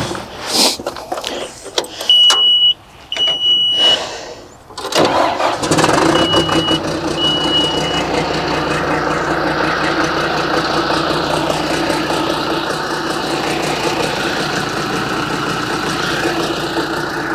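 John Deere 310G backhoe's four-cylinder diesel engine cranking and catching about five seconds in, then idling steadily, just started on new fuel filters and a new fuel line. Two short high beeps come before it starts and two more just after it catches.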